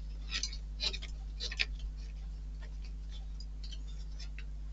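Faint, irregular small clicks and ticks of a tiny screw being driven into a model kit part with a small screwdriver, several in the first second and a half, then a few more near the end, over a steady low hum.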